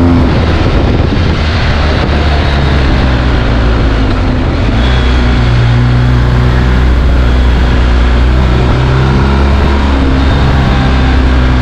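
BMW R1250 GS Adventure's boxer-twin engine running through its stock exhaust, settling right after a rise in revs and then holding a steady pitch.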